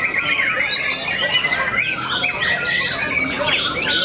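Many caged songbirds singing at once, a dense overlapping chorus of rapid, varied whistles, trills and squawky calls.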